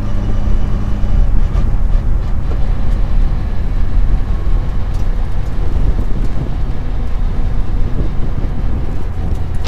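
Mitsubishi Lancer Evo 6 rally car's turbocharged four-cylinder engine running steadily, heard from inside the car.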